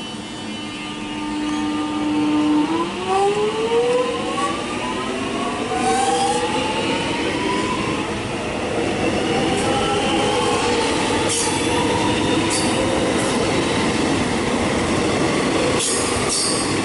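Alstom X'Trapolis electric suburban train pulling away and accelerating: a steady electric tone holds, then about two and a half seconds in the traction motor whine climbs in pitch as several rising tones. Wheels click and squeal on the rails as the carriages roll past.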